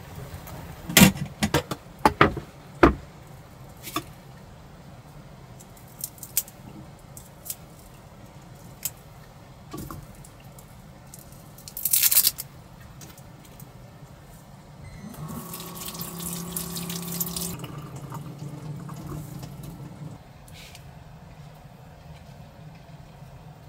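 Small clicks and knocks of things being handled, a short hiss, then about three seconds of liquid being poured or filled.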